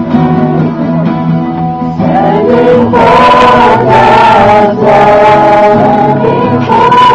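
A group of voices singing together in sustained notes, softer at first and louder from about two seconds in.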